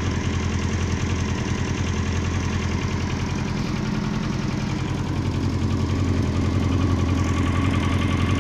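Honda CBR900's inline-four engine running at idle with a strange noise, which the owner suspects is either connecting-rod knock or poor carburetion. The revs rise slightly about five seconds in.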